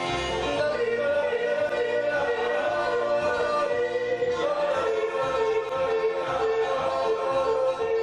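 Live bluegrass combo playing a break between sung verses of a cowboy song. A sustained, wavering melody line rides over strummed guitar and double bass.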